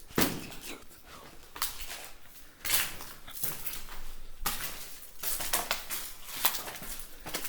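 Irregular clattering and crunching knocks of hard debris, metal and rubble, in a run of sharp strikes. The loudest strike comes right at the start, with more bursts around three, five and six and a half seconds in.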